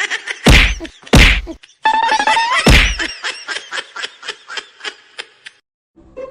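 Three heavy whack sound effects with deep booming tails, the last one ringing, followed by a quick run of taps that fade away.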